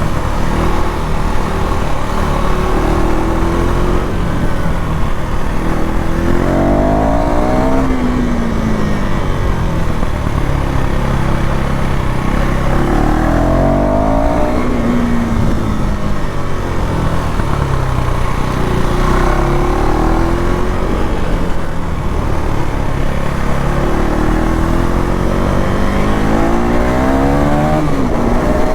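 KTM Duke 390 Gen 3's single-cylinder engine on its stock exhaust, running under throttle. Its pitch climbs and falls several times as it speeds up and eases off.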